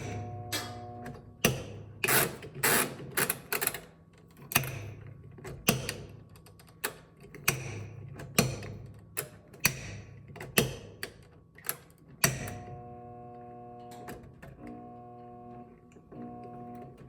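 Frigidaire washing machine motor humming in short spells without running up, stalling, amid repeated clunks and knocks. The owner suspects something dropped inside the washer has seized it up.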